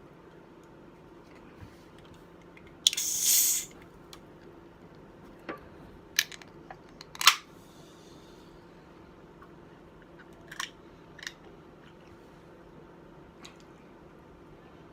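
A person eating a burger: sparse mouth sounds and sharp clicks while chewing, with a short hissing rustle about three seconds in.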